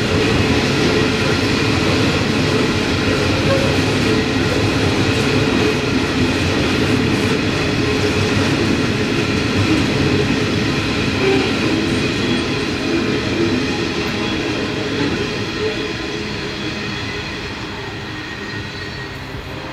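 Loaded coal train wagons rolling past on narrow-gauge track: a steady rumble of wheels on rail with a faint high steady squeal over it, fading gradually over the last few seconds.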